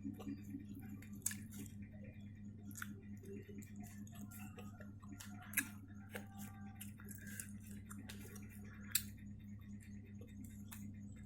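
Faint mouth sounds of someone eating fried chicken: small wet smacks and clicks, three of them sharper, about a second in, midway and near the end. A steady low hum runs underneath.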